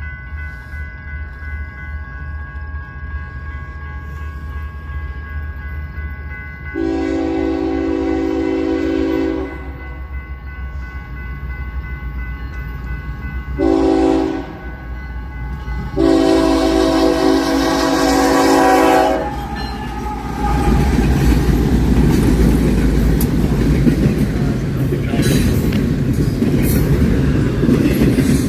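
Freight train locomotive approaching with a low engine hum, then sounding its air horn three times: a long blast about seven seconds in, a short one around fourteen seconds, and another long one around sixteen to nineteen seconds. From about twenty seconds the train passes close by, a loud steady rumble with wheels clacking over the rail joints.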